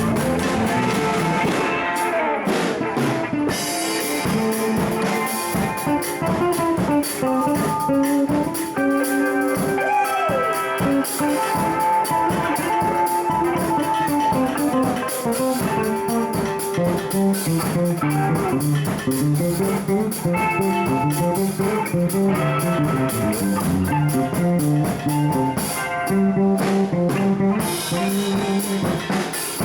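Live band jamming in a blues-rock style: electric guitar playing runs of notes over bass guitar and a drum kit.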